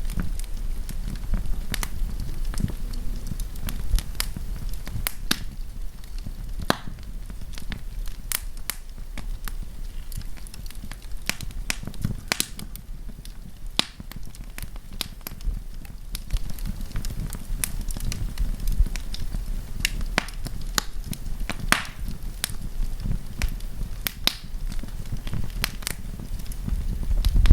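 Wood campfire burning, with irregular sharp crackles and pops from the burning wood over a steady low rumble of flames.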